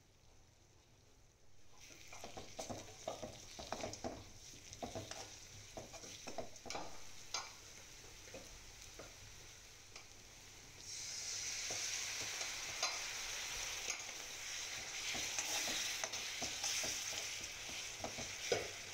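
Onion and spice masala frying in oil in a steel kadai, stirred with a metal spoon that scrapes and knocks against the pan. About eleven seconds in, tamarind juice hits the hot pan and the sizzle becomes much louder and stays loud.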